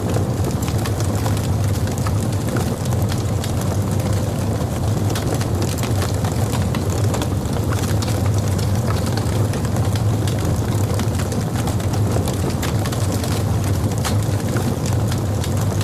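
Logs burning in a fireplace: a steady low rumble of flame with frequent sharp crackles and pops.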